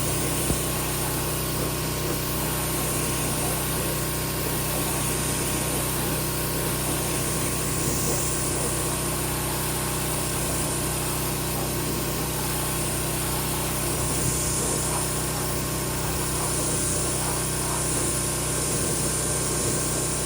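Pressure washer running steadily, with the hiss of water jetting from the upward-spraying nozzles of a rolling undercarriage cleaner onto a vehicle's underside.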